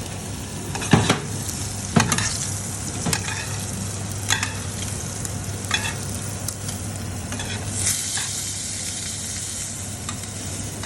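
Steak searing in butter in a frying pan, a steady sizzle, with several sharp knocks of a utensil against the pan.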